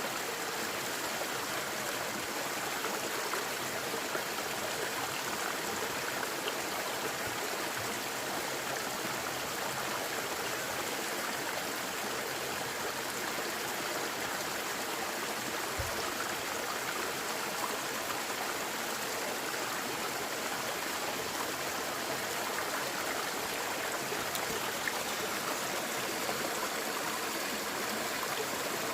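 Valley stream running steadily: continuous rushing and gurgling water.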